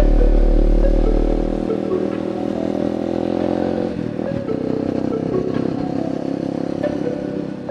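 Honda XR200's single-cylinder four-stroke engine with an open exhaust pipe, running at a fairly steady engine speed while being ridden, with some light clatter.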